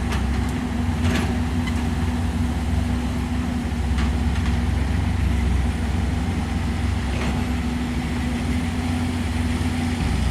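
Diesel engine of a heavy earthmoving machine running steadily with a deep hum, with three faint short clicks spread through.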